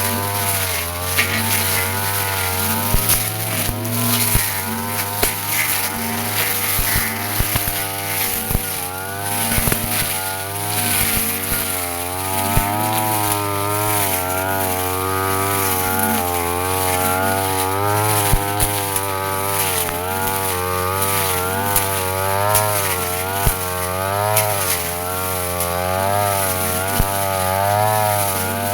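Brush cutter with a spinning metal blade running at high speed and cutting grass, its engine pitch wavering up and down every second or so as the blade takes the load, with scattered sharp ticks.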